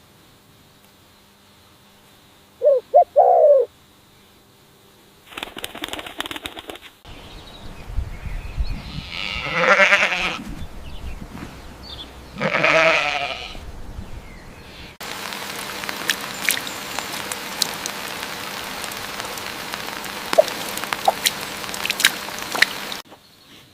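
Farm animals calling: a few short pitched calls, then two long, wavering calls of about a second each, then a stretch of steady noise with scattered clicks.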